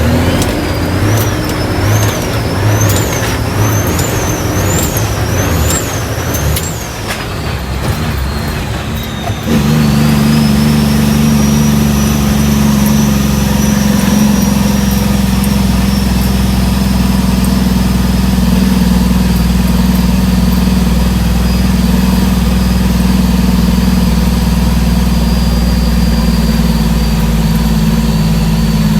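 Heavy truck's diesel engine running. For the first nine seconds a high tone wavers up and down about once a second; then the sound changes abruptly to a steady engine drone with a high whine above it.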